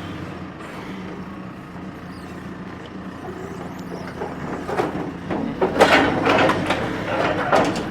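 Engine of the forked lifting machine running steadily, with metal clanks and rattles starting about halfway through as the truck cab is worked loose.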